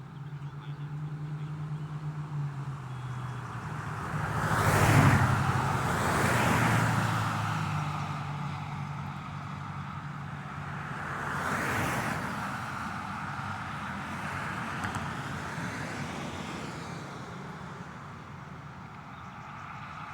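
Road traffic passing: several vehicles go by, the loudest about five seconds in and another about twelve seconds in, over a low steady engine hum.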